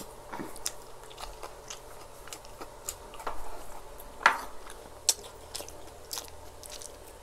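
Close-up eating sounds of people chewing spoonfuls of shawarma rice: wet mouth noises and chewing, with scattered sharp clicks, the loudest about four seconds in.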